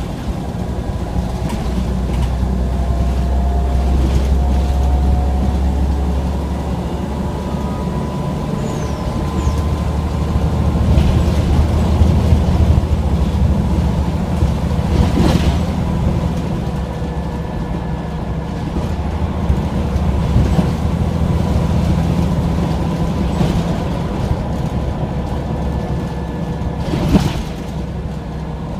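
Scania OmniCity single-deck bus on the move: engine and road rumble rising and easing with speed, with a faint steady whine and a couple of sharp knocks or rattles about halfway and near the end.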